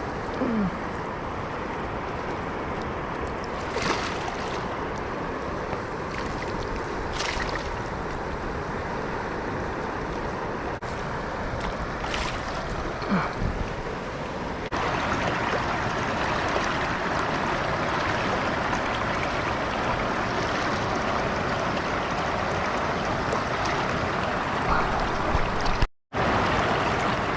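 Steady rush of river water, stepping up in loudness about halfway through and cutting out for a moment near the end. A few short, sharp sounds stand out over it.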